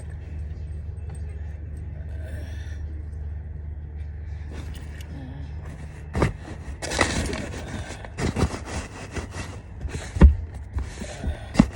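A steady low hum, then clicks, knocks and rustling from things being handled, with one loud thump about ten seconds in.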